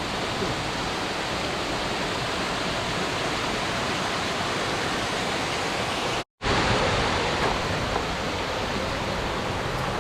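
Steady rush of falling water from a tall mountain waterfall. The sound cuts out for an instant about six seconds in and returns a little louder.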